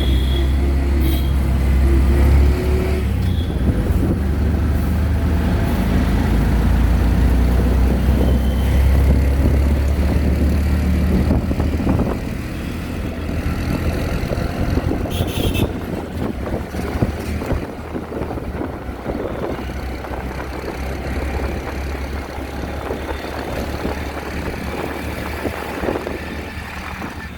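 Auto-rickshaw engine running as the rickshaw rides through city traffic, with a steady low drone that is louder for about the first twelve seconds and then eases off.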